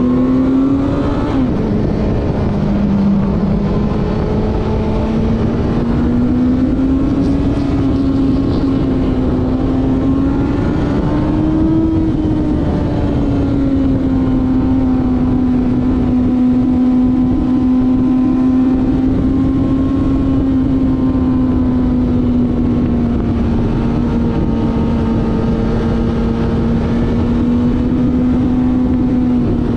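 Honda CBR900RR's inline-four engine running at high revs on track, heard on board with steady wind and road rush. The engine note drops sharply about a second in at an upshift, climbs steadily until about twelve seconds in, eases a little, then holds steady.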